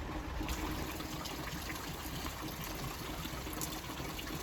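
Steady rain falling, with water trickling and running.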